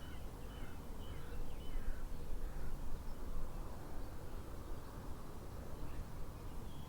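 Outdoor ambience: faint distant bird calls, a few short chirps in the first few seconds, over a steady low background noise.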